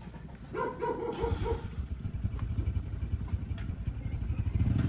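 Tractor engine running with a low, even pulse that grows louder and picks up sharply near the end as the tractor sets off under way. Just before the engine comes in there is a short run of quick repeated calls.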